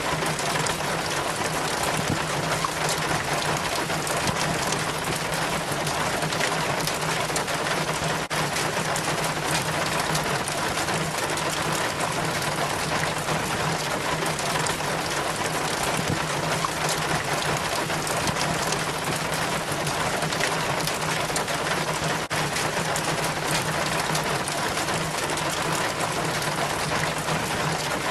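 Rainwater trickling and splashing down a rain chain from a roof gutter, a steady, unbroken rush of falling water.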